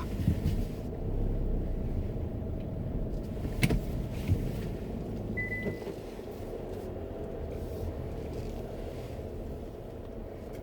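Car running, heard from inside the cabin: a steady low engine and road rumble, with a sharp click about three and a half seconds in and a brief high beep a couple of seconds later.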